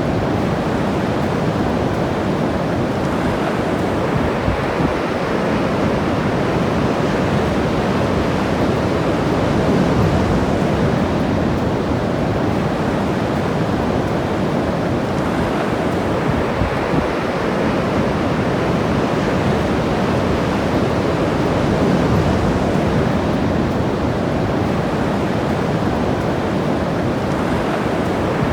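Ocean surf washing onto a beach: a steady rush of breaking waves that swells gently twice.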